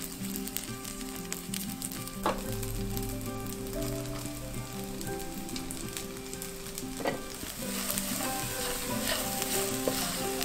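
Diced pressed-tofu vegetarian chicken frying in sesame oil in a nonstick pan, sizzling steadily while a wooden spatula scrapes and stirs it. About seven seconds in, diced fresh shiitake mushrooms go into the pan and the sizzle gets louder.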